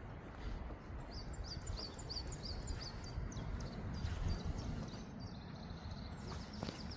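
Small birds chirping in a quick series of short high notes, then a fast trill about five seconds in, over a low steady outdoor rumble.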